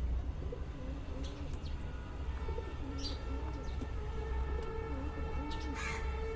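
Domestic desi gola pigeons cooing: a run of low, wavering coos, with a few short high chirps and a steady low hum underneath.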